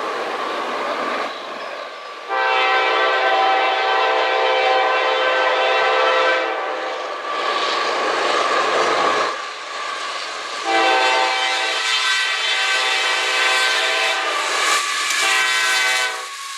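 Diesel locomotive's multi-chime air horn sounding two long blasts and then a short one, over the rumble of the passing train. This is the start of the long-long-short-long pattern sounded for a grade crossing.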